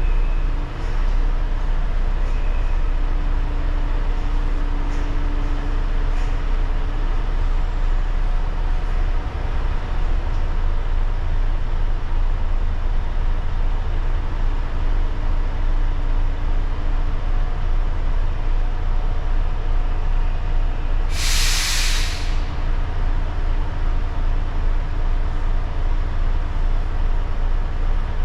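Heavy truck's diesel engine running with a steady low rumble. About three quarters of the way through comes a single short hiss of air brakes venting, about a second long.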